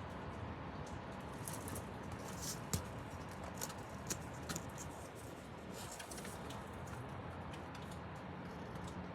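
Steady heavy rain with scattered sharp clicks and taps of drops, the loudest a single click about three seconds in.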